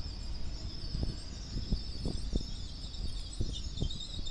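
Platform ambience beside a standing Great Western Railway Class 802 train: a steady, slightly wavering high hiss from the train, over low wind rumble on the microphone and scattered short low knocks.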